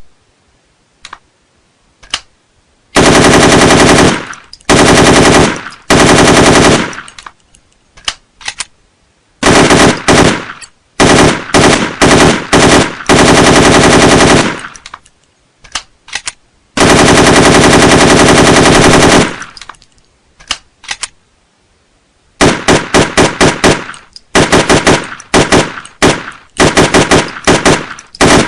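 AK-47 assault rifle firing: a couple of single shots, then long bursts of fully automatic fire lasting up to a few seconds each, and near the end a quick run of shorter bursts and single shots, very loud.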